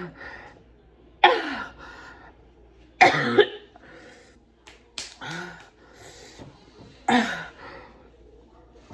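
A person coughing hard in four sudden bursts about two seconds apart, with breathy gasps between: choking because a noodle went down the wrong pipe while eating extra-spicy noodles.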